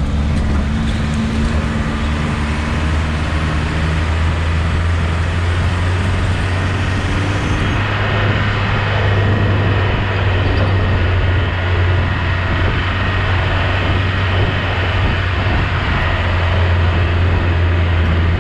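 Off-road vehicle driving: a steady low engine drone with a dense rush of road and wind noise.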